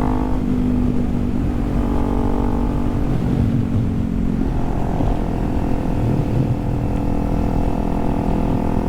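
Kawasaki Z400's parallel-twin engine running at road speed under a low wind rush. Its note eases off about three seconds in and settles back to a steady pitch about five seconds in.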